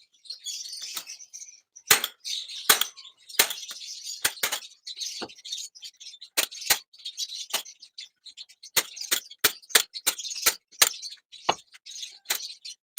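Irregular sharp clicks and clinks, some a few a second and some spaced further apart, with bursts of high chattering hiss between them.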